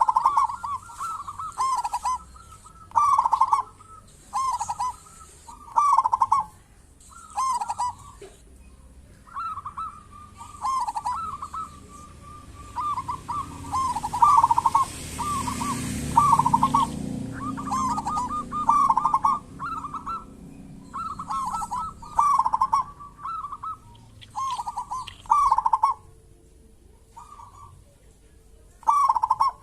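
Zebra dove (perkutut) cooing: short, repeated rolling coo phrases, one about every second and a half, with a pause of a couple of seconds near the end. A low rushing noise swells and fades in the middle.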